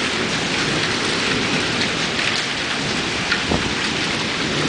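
Heavy rain with hail coming down hard, a steady dense hiss with scattered sharp ticks of hailstones striking.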